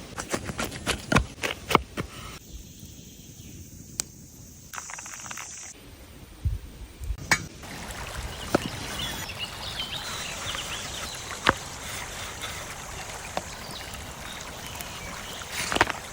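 Water trickling and running, with scattered sharp clicks and knocks throughout. The background changes abruptly about two and a half and seven and a half seconds in.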